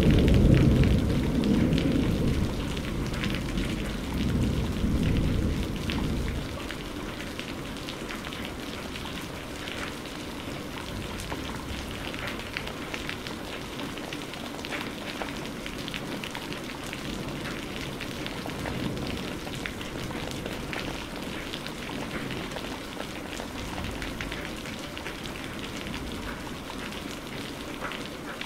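Steady rain falling, with individual drops ticking on a surface. A low rumble of thunder rolls away and fades out over the first six seconds or so.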